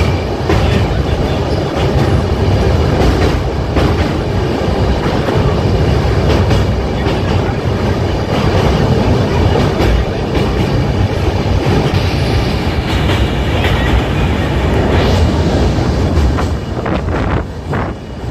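Passenger express train running at speed over a steel truss bridge, a loud steady rumble of wheels on rail with an irregular clatter of wheel clicks.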